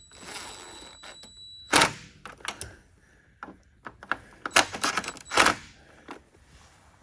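Scattered clicks and knocks of hard parts and tools being handled while the charge air cooler is fitted under the car. One loud knock comes about two seconds in, and a quick run of clicks follows a few seconds later.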